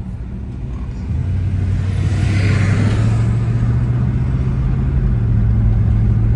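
Car engine and exhaust drone heard from inside the cabin while driving, steady and low, getting louder and a little higher about a second in as the car speeds up. A brief rushing hiss comes and goes between about two and three seconds in.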